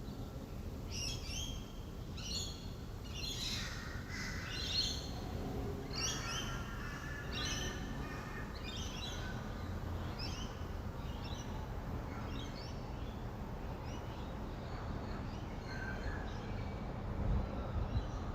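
Rainbow lorikeets calling, a run of shrill, harsh screeches about once a second that grow fainter in the last few seconds, over a steady low rumble of distant traffic.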